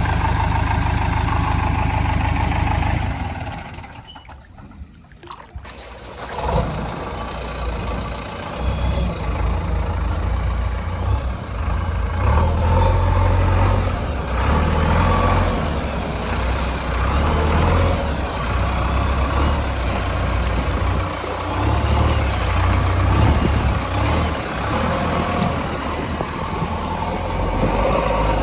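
Heavy diesel vehicle engine running. It falls away for about two seconds roughly four seconds in, then runs again with an uneven, rising and falling rumble.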